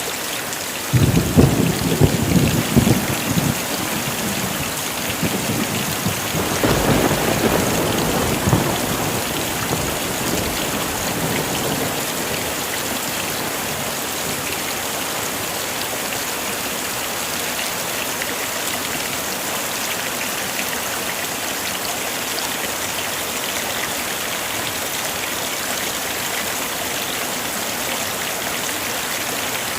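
Heavy rain falling steadily, with thunder rumbling twice: about a second in and again around seven seconds in.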